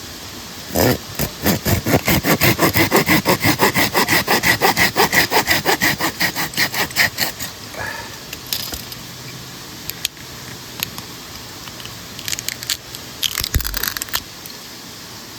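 Hand saw cutting wood in fast, rhythmic strokes for about six seconds, then a few scattered scrapes and knocks of wood being handled.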